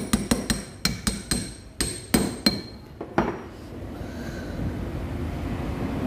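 Metal tools striking metal engine parts: about a dozen quick, irregular, ringing taps, ending about three seconds in.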